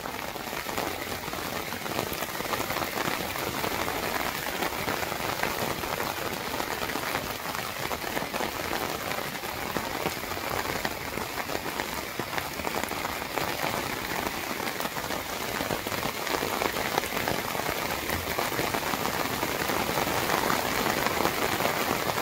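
Heavy rain pouring down steadily, a dense patter of drops that grows a little louder near the end.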